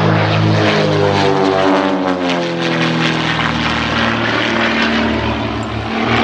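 Propeller engines of two Pitts Special aerobatic biplanes flying past, their pitch dropping as they pass about a second or two in, then a steady drone.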